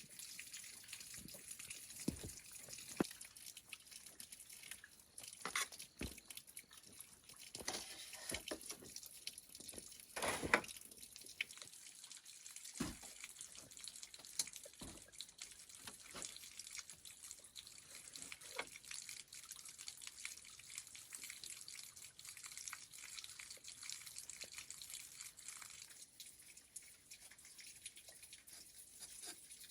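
Water trickling and dripping at a kitchen sink, with scattered light clicks and knocks and one louder knock about ten seconds in.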